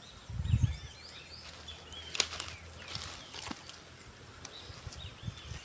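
Outdoor ambience of small birds chirping on and off over a steady faint high whine, with a low thud about half a second in and a few sharp clicks around two seconds in.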